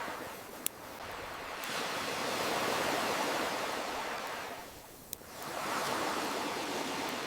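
Ocean waves washing in and out, swelling and ebbing in slow surges, with two single sharp pops from a crackling wood campfire, about a second in and again near the middle.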